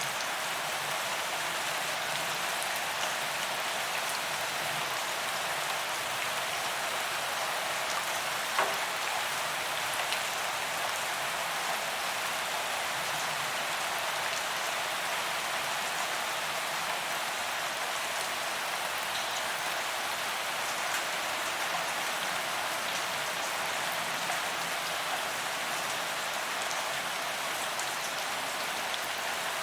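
Steady rain falling on a paved promenade, an even hiss of drops striking the ground, with a single louder tap about eight seconds in.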